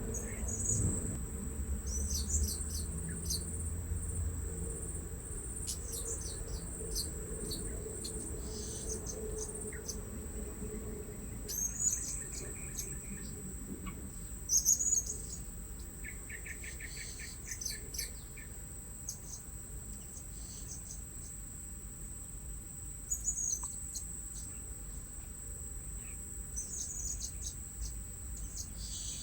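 Short, thin, high-pitched chirps of blue-crowned hanging parrots, scattered irregularly, with a brief rapid trill about halfway through, over a steady high-pitched insect drone.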